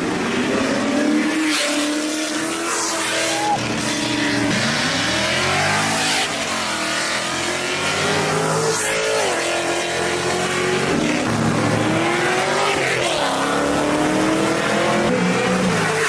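Car engines revving hard, the pitch climbing and dropping again several times as the cars accelerate and shift.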